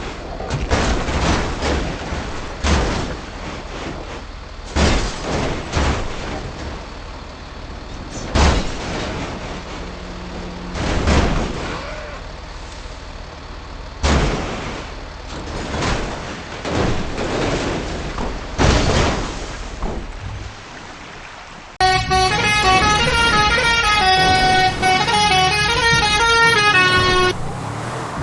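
Cartoon vehicle sound effects: a steady engine-like noise with loud swells every two to three seconds, then, about 22 seconds in, a sudden tune of stepped notes like a musical truck horn that plays for about five seconds.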